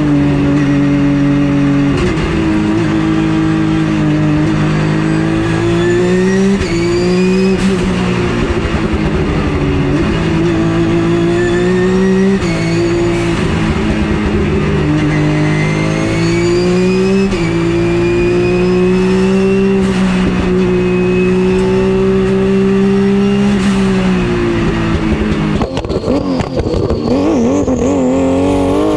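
Turbocharged Porsche GT3 Cup race car engine under hard acceleration, its pitch climbing and dropping back at each of several gear changes. Near the end the note turns unsteady as the car slows and shifts down, and a high whine rises.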